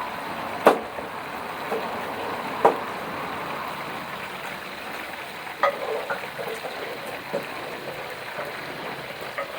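Oil sizzling steadily as battered chicken wings deep-fry, with a few sharp knocks of kitchen utensils.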